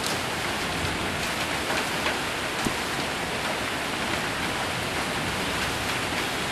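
Heavy rain mixed with hail falling on a roof: a dense, steady patter with a few sharper single hits standing out.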